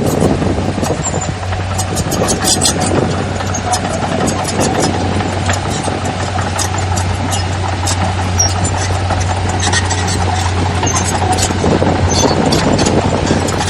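Heavy earthmoving machinery's diesel engine running steadily with a deep hum, with scattered sharp clicks and clinks throughout.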